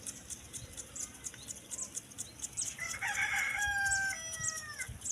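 A rooster crowing once: one long held call starting about three seconds in and bending down slightly at its end. Small birds chirp in the background.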